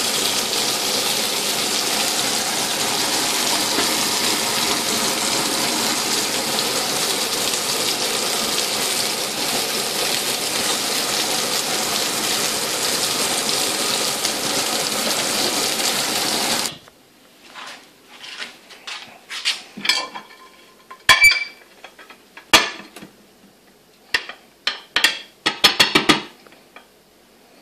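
Vegetable skewers sizzling steadily in hot oil in a frying pan. The sizzle cuts off abruptly about two-thirds of the way through, followed by scattered clinks and knocks of plates and utensils on a countertop.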